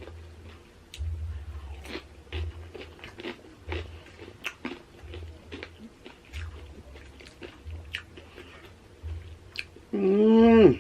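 Close chewing of crunchy tortilla chips from a loaded nacho salad, with many small crisp crunches. Near the end comes a short hummed vocal sound.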